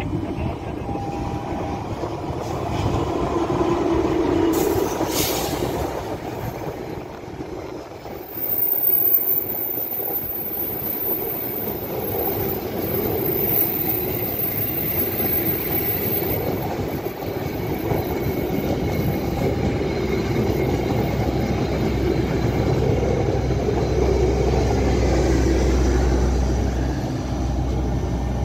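Passenger train hauled by a GE CC206 diesel-electric locomotive passing close by: the locomotive goes by in the first several seconds, loudest about nine seconds in, then the coaches follow with a steady, loud wheel-on-rail noise.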